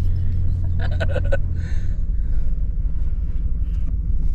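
Pickup truck engine and road rumble heard from inside the cab while driving, steady and low. A few short, higher sounds come about a second in.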